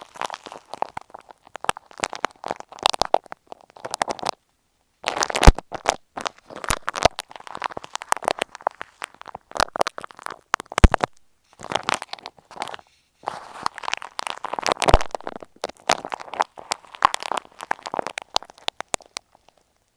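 Ear pick scraping and scratching against an earphone microphone, a dense close-up crackle of rubbing strokes broken by a few short pauses.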